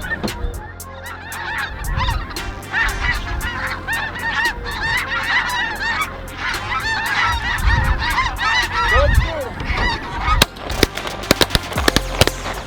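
A large flock of snow geese calling together in a dense, continuous chorus of high, overlapping honks, with sharp clicks coming thicker near the end.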